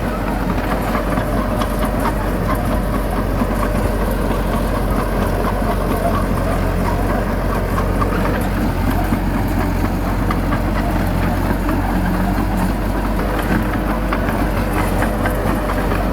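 Bulldozer's diesel engine running steadily with a low, even rumble.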